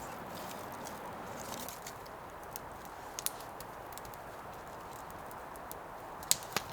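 Small campfire crackling, with scattered sharp pops and two louder ones near the end, over a steady rushing noise.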